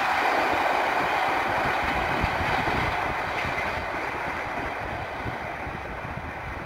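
A train running past on the rails, its noise fading steadily as it moves away.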